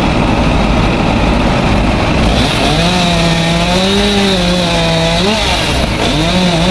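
Chainsaw revving at high speed from about two and a half seconds in, its pitch sagging and recovering as the chain bites into the tree trunk. It breaks off briefly and comes back under load near the end, over a low engine rumble.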